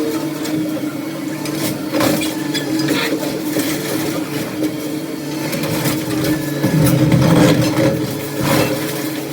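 A demolition machine's engine runs steadily, with irregular knocks and scrapes of debris over it. There is a louder stretch of engine noise about seven seconds in.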